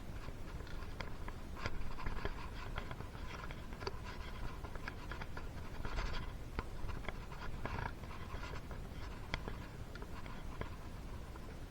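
Hands working on a two-stroke engine during piston fitting: scattered light clicks and taps of small metal parts, with brief scraping rubs, the strongest about six seconds in.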